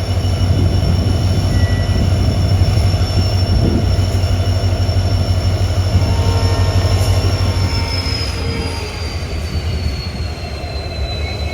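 Poorna Express passenger train running, a loud steady rumble of wheels on rail with a high steady wheel squeal that slides lower in pitch about eight seconds in.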